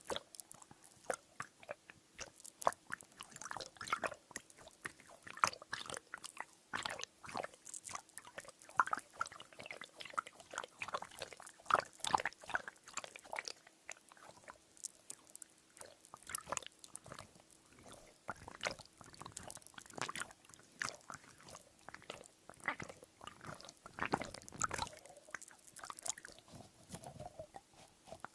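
A water-filled squeeze toy with beads inside being squeezed and squished by hand, giving dense, irregular wet squelches and little crackling clicks.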